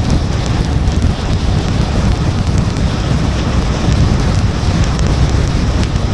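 Steady rain-and-road noise of a car driving in the rain: a low rumble of tyres and wind, with faint scattered ticks of raindrops.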